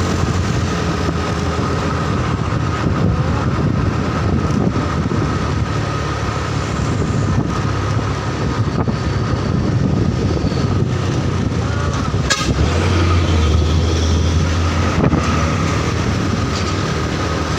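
Truck engine running under way, a steady low rumble with a thin steady tone above it. There is a sharp knock about twelve seconds in, and the low engine note grows stronger for a couple of seconds after it.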